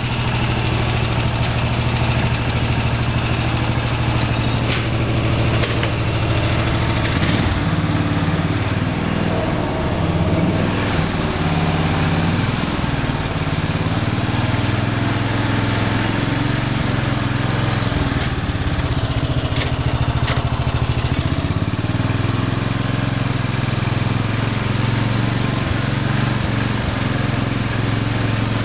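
A Murray riding mower's 14.5 horsepower Briggs & Stratton overhead-valve engine running through its stock muffler as the mower is driven. Its engine speed sags and picks up again a few times, and there are a few short knocks.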